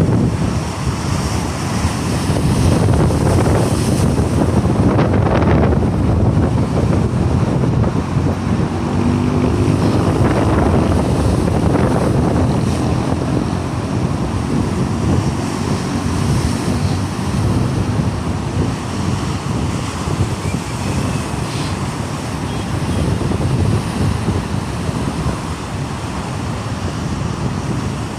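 High sea waves surging and breaking against rocks, a continuous rumbling wash that swells and falls, with wind buffeting the microphone.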